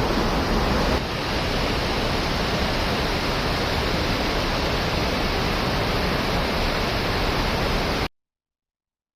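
Steady rush of a mountain river's flowing water, an even broad hiss with a low rumble beneath; it cuts off abruptly about eight seconds in, leaving silence.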